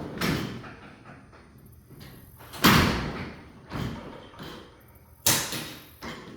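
A series of about five irregular knocks and bangs from work on a garage door's hardware. The loudest comes a little before halfway through, and a second strong one follows a couple of seconds later.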